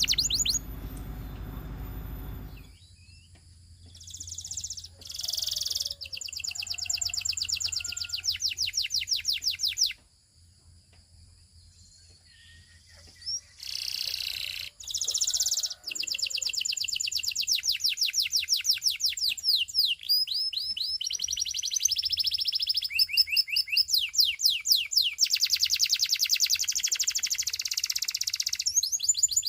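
Domestic canary (Russian canary) singing: long, fast trills of rapidly repeated high notes, changing from one rolled phrase to the next, with two pauses of a few seconds.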